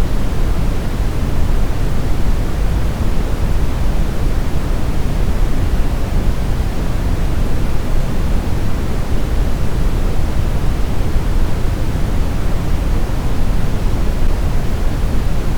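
Steady brown noise: an even, deep rushing hiss, strongest in the low end and thinning towards the top, with no changes.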